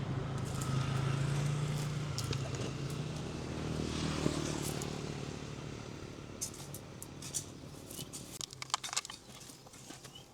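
A low engine hum that slowly fades away, followed in the second half by scattered sharp clicks and snaps.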